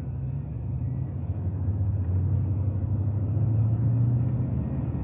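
Truck engine and tyre noise heard from inside the cab while driving: a steady low engine hum that grows a little louder about two seconds in.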